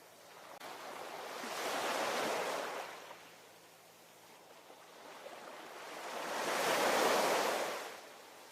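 Ocean waves surging in, two waves about five seconds apart, each swelling up and fading away over two to three seconds.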